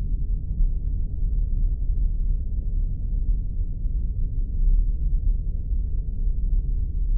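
Spaceship sound effect: a continuous, even, low rumbling drone with its weight in the deep bass, like an engine hum heard inside a starship.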